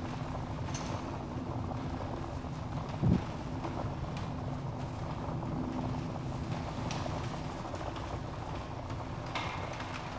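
Wood fire burning in a fireplace: a steady low rumble of flames with scattered sharp crackles and pops, and one louder, short thump about three seconds in.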